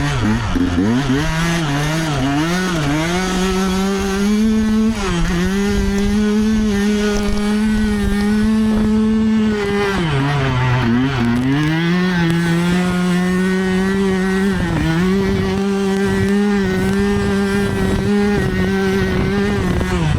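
Dirt bike's single-cylinder engine under way: revved up and down a few times at first, then held at high revs. It drops off briefly about halfway through and again for a moment later on, then picks back up.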